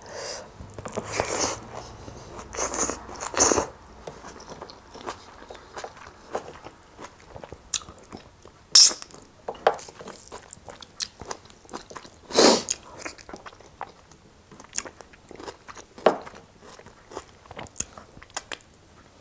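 Close-miked eating sounds: a person chewing and biting pork trotter with rice eaten by hand, with many small sharp mouth clicks and several louder crunchy bites scattered throughout.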